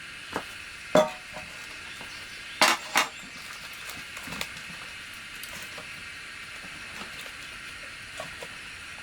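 A few sharp knocks or clinks, the loudest about a second in and a quick pair near three seconds, over a steady high-pitched hiss.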